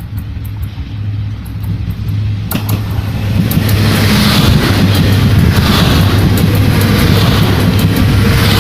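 Train passing close by at speed: a low hum, then a loud rush of wheels on rails that builds about three seconds in, with regular clicks of the wheels over rail joints.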